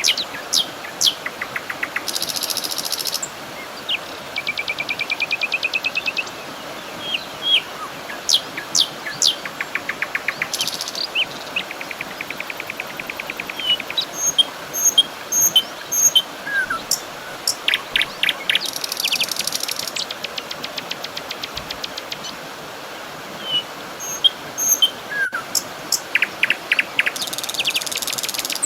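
Several birds chirping and calling in short sweeping notes and fast trills, on and off throughout, over a steady background hiss.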